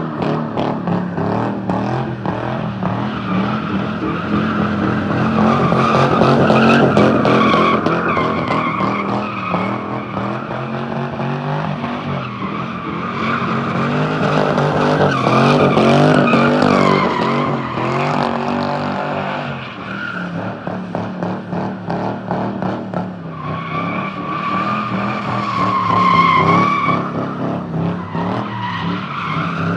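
A drifting car's engine held at high revs, with tires squealing as the car slides; the squeal swells and fades three times.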